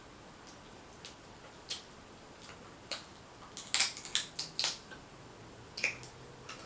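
Snow crab shells being cracked and broken apart by hand while eating: a series of sharp cracks and clicks, with a quick cluster of several about four seconds in.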